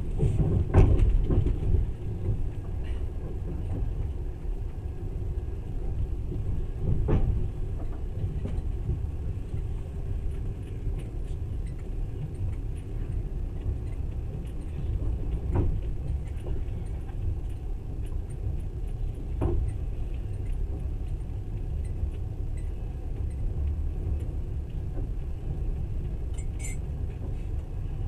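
Passenger train running at speed, heard from inside the carriage: a steady low rumble of wheels on rails with light rattles and a few sharp knocks, about a second in, near 7 s, and twice more later.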